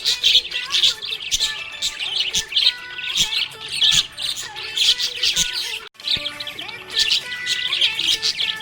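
Budgies chirping and warbling continuously in a dense, busy chatter, broken by a sudden brief dropout a little before six seconds in.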